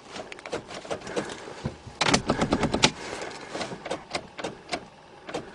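Starter solenoid of a 1990 Toyota Corolla clicking over and over as the key is turned, with a fast run of clicks about two seconds in. The battery is too weak to crank the engine.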